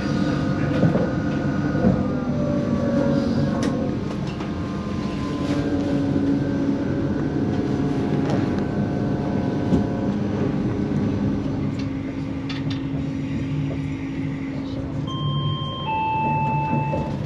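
Cabin sound of a CrossCountry Voyager diesel train on the move: a steady low engine hum and rumble with shifting whining tones and scattered clicks. About two seconds from the end, the on-board PA gives a falling two-note chime ahead of an announcement.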